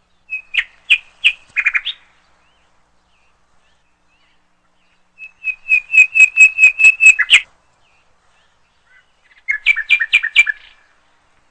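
Birds calling in three bouts of quick, sharp, repeated high notes, each bout lasting one to two seconds.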